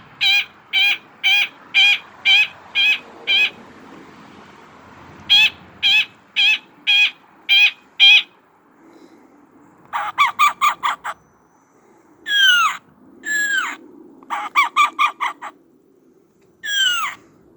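Recorded bird calls played back on an Identiflyer birdsong player: two runs of evenly spaced, clear repeated notes, about two a second, separated by a short pause. These are followed by quick chattering bursts alternating with single downward-slurred calls.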